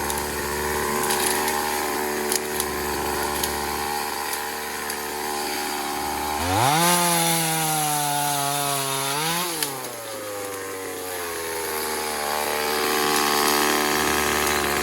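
Small chainsaw engine idling, revved up about six seconds in and held high for about three seconds, then dropping back to idle.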